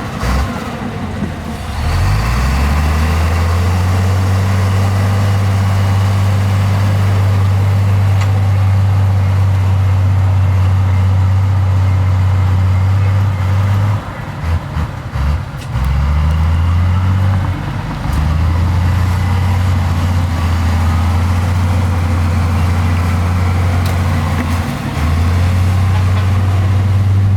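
Heavy earthmoving machinery's diesel engine running, a deep steady drone that drops out briefly about halfway through.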